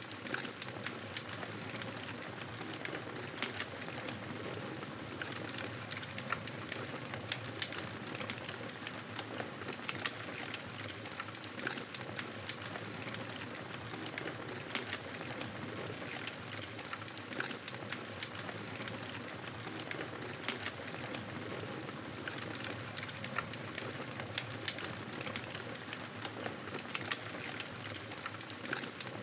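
Wood fire crackling: a steady soft hiss with frequent small sharp pops and snaps scattered throughout, some louder than others.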